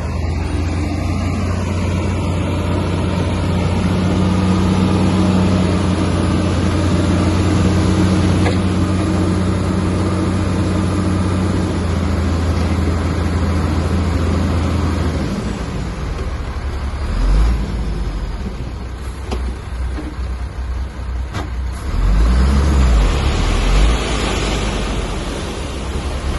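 Heavy diesel engine of earthmoving machinery running with a steady drone. About halfway through it changes to a lower, uneven rumble with surges and a couple of sharp knocks.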